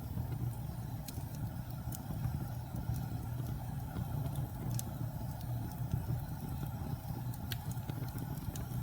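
Wood fire burning: a steady low rumble with scattered sharp crackles and pops every second or few.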